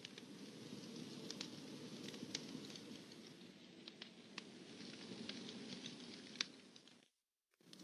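Campfire crackling: scattered sharp pops and snaps of burning wood over a low, steady rustle of the flames. The sound cuts out completely for about half a second near the end.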